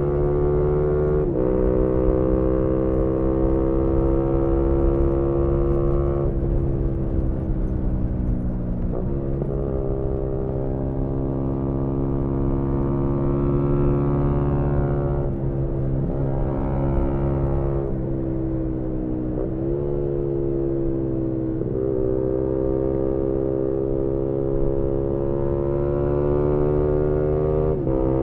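Yamaha MT-125's single-cylinder 125 cc four-stroke engine through a GPR aftermarket exhaust, ridden hard. Its pitch climbs slowly under throttle, then drops sharply at each gear change or throttle lift, about eight times.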